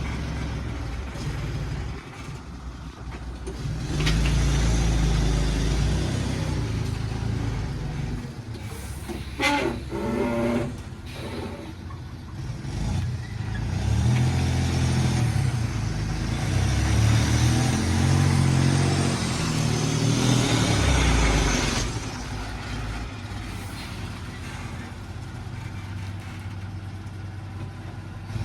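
JCB 3DX backhoe loader's diesel engine working, revving up and down under hydraulic load in long spells, with a short clatter near the middle.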